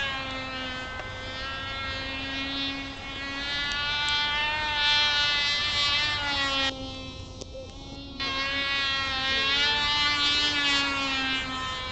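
Cox Tee Dee .051 glow engine on a small RC plane in flight at full throttle: a high, insect-like buzzing whine whose pitch wavers up and down as the plane flies. The sound fades sharply for about a second and a half just past the middle, then comes back.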